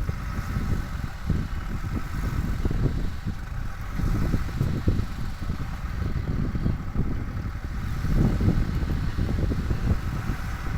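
Tata truck's engine running, a steady uneven low rumble with no break.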